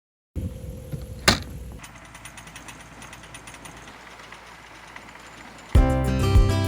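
Sailboat's inboard engine running steadily with a low hum while motoring, with one sharp knock about a second in. Guitar music comes in near the end.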